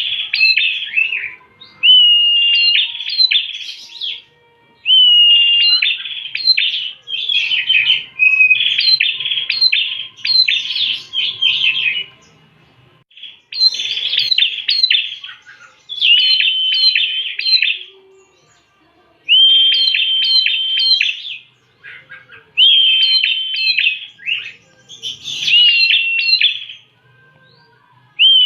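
Prinia (Indonesian prenjak) singing: repeated bouts of two to three seconds of fast, sharp chirps and trills, several with a held whistled note, separated by short pauses.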